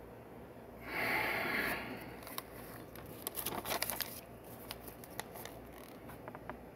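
Small plastic Lego pieces being handled: a rustle lasting about a second, then a scatter of small clicks and taps.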